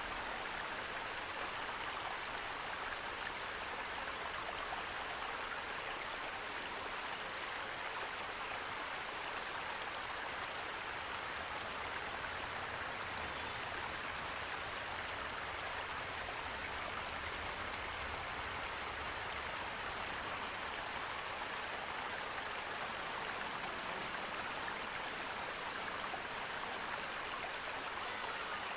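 Running water rushing steadily and evenly, with no birdsong or other sounds.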